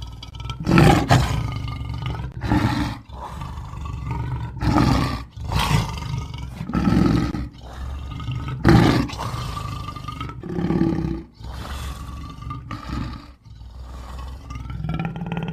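Kaiju-style dragon roar sound effects: a string of about eight roars, each around a second long, bending up and down in pitch, with short breaks between them.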